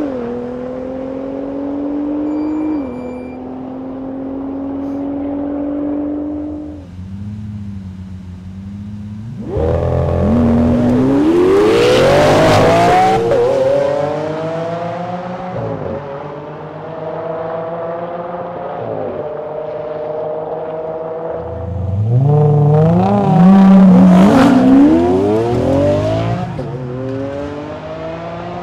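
Supercar engine and exhaust accelerating hard twice, the pitch climbing steeply about 10 seconds in and again about 22 seconds in. Between the two runs the engine holds steady, and near the start there is a drop in pitch like an upshift.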